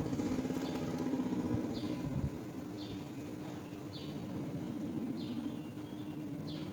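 Short, high, downward chirps from a bird at a nest, repeated about once a second over a steady low hum.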